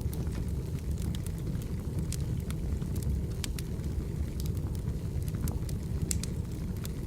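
Wood fire burning, with a steady low rumble of flames and many sharp, irregular crackles and pops from the burning firewood.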